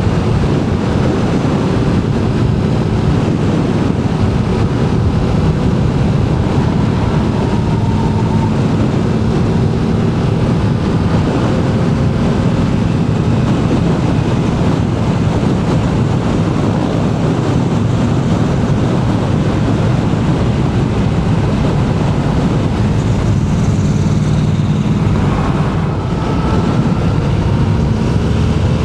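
Motorcycle engine running at road speed under steady wind rush on the microphone, its pitch drifting slowly up and down as the throttle changes.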